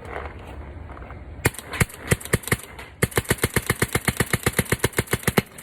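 Autococker-type paintball marker (CTLP Buttermodded with an Inception Trident bolt, lightly sprung) firing on compressed air at 225 psi: a few single shots, then a fast, even string of about ten shots a second from about three seconds in. The shots are very quiet, typical of a smooth-running tuned cocker.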